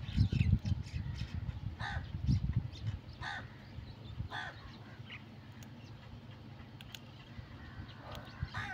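A bird calling repeatedly in short calls, about a second or so apart, with a few fainter ones later. Low rumbling noise is loudest in the first few seconds, then dies down.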